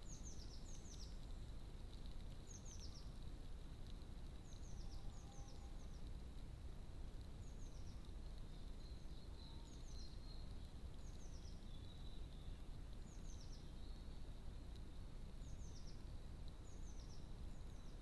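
A small bird calling: short, high chirps that slide downward, often in pairs, repeated every second or two. Underneath are a faint steady high tone and a low background rumble.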